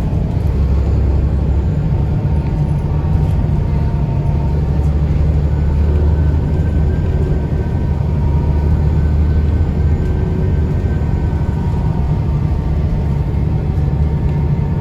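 Scania L94UB bus's DSC9 nine-litre six-cylinder diesel engine running under way, a steady low rumble that grows heavier for a few seconds in the middle, with a faint thin whine over it.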